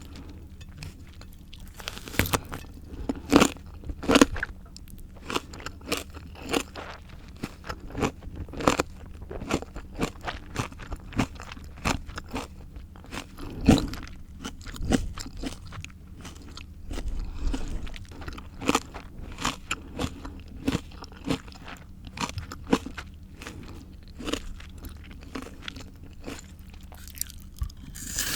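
Crunchy bites and chewing of raw fruit and vegetables: a dense, irregular run of sharp crisp crunches, with a few louder bites.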